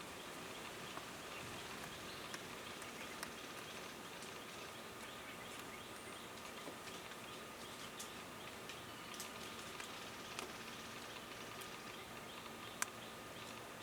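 Faint outdoor ambience: a thin steady tone under a haze of noise, with scattered small clicks and one sharper click near the end.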